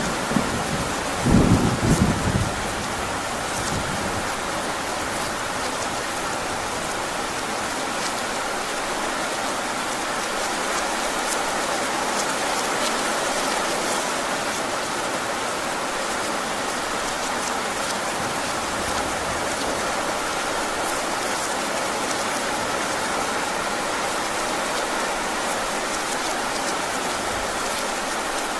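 Heavy rain falling steadily, with a close thunder rumble in the first couple of seconds.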